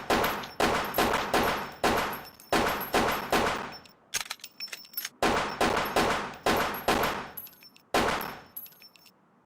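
A firearm fires about a dozen shots in rapid succession, roughly two a second, and each shot trails off in an echo. Around four seconds in there is a short break filled with small metallic clicks, then more shots until the last one, about eight seconds in.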